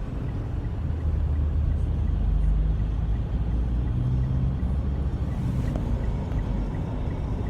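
Road and engine noise inside a moving vehicle's cabin: a steady low rumble that swells slightly about two seconds in.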